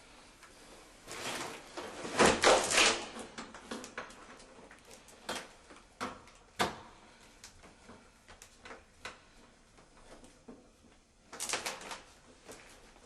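Scattered clicks and knocks, with two louder stretches of rasping noise, one about two seconds in and a shorter one near the end.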